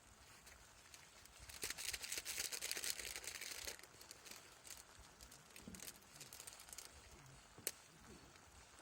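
Rustling and crinkling, with a dense burst of fine crackling for about two seconds near the start, then scattered light clicks and one sharp click near the end.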